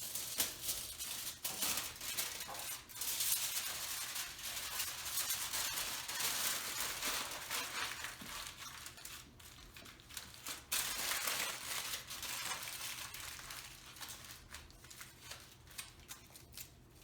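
Irregular crinkling and rustling of wrapping material being handled, with many short crackles, easing off near the end.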